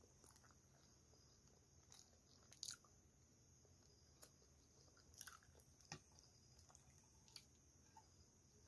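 Faint chewing of soft pasta, with a few quiet mouth clicks scattered through.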